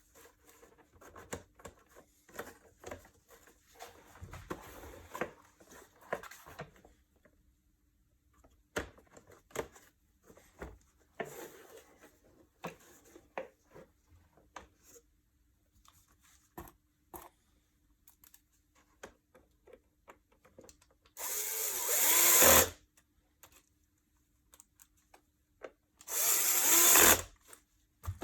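Parts being handled with small clicks and knocks, then two short runs of a cordless power screwdriver, each about a second long and growing louder as it runs.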